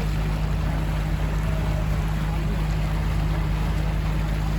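Engine of a river passenger boat running steadily, a constant low drone.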